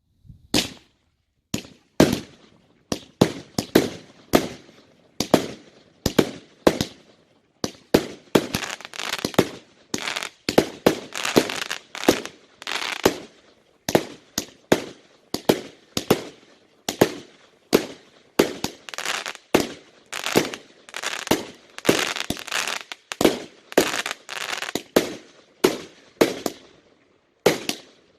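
Consumer fireworks firing in quick succession: a long string of sharp bangs, about one to two a second, each followed by a short crackle, starting suddenly after a silence.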